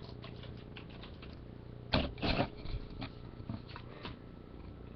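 Light clicks and taps of handling at a desk, with two louder knocks about two seconds in and a few scattered clicks after.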